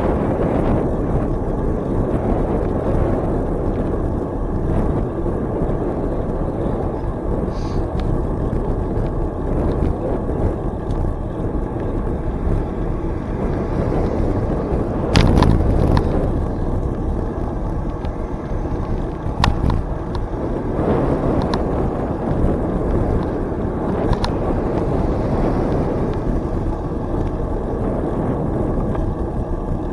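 Steady wind on the microphone and rolling noise from a bicycle moving along a trail, with a louder rush about halfway through and a couple of sharp clicks soon after.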